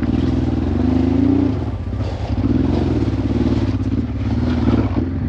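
Honda Transalp motorcycle engine running under way, its pitch rising and falling several times as the throttle opens and closes.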